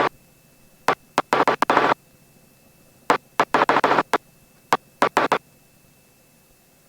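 Aircraft radio in the headset audio, opening and closing in three clusters of short noisy bursts with a faint steady tone in them and abrupt cut-offs, with quiet gaps between.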